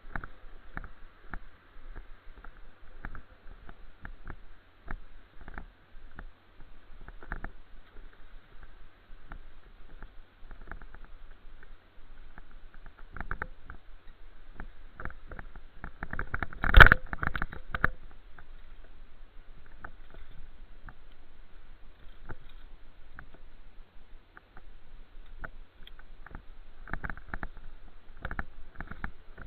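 Rattling and knocking noise from a bicycle ride: many short clicks and knocks over a steady rush, with one much louder bump about 17 seconds in.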